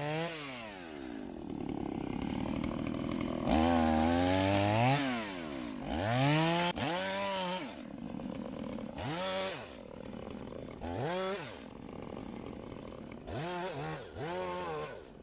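Chainsaw engine revved in short bursts about half a dozen times, each rising in pitch and dropping back to idle, the longest run about four seconds in.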